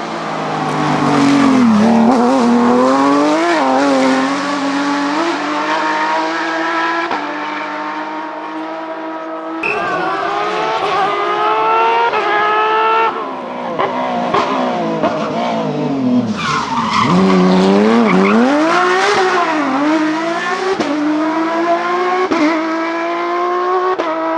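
Porsche 911 GT3 rally car's flat-six engine at full attack, its pitch climbing and dropping again and again as it accelerates, shifts and brakes, with an abrupt jump in the sound about ten seconds in.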